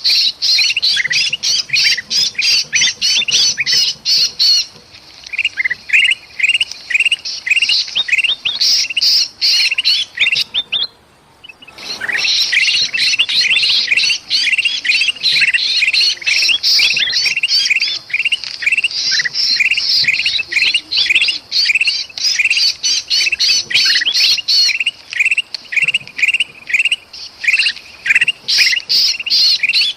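Bulbuls, kutilang emas and sooty-headed bulbul, giving a dense, rapid run of harsh, agitated chattering calls. These are alarm calls mixed with the distress calls of a trapped bird. The calling breaks off briefly about eleven seconds in, then resumes.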